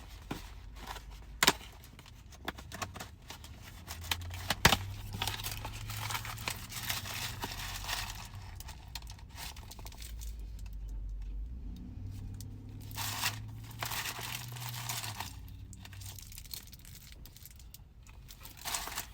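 Food wrapping crinkling and tearing as a sandwich is unwrapped, with scattered rustles, two sharp clicks about one and a half and four and a half seconds in, and a low steady hum underneath.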